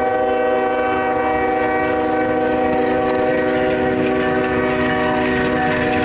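Train horn held in one long continuous blast, several tones sounding together, over a steady low noise.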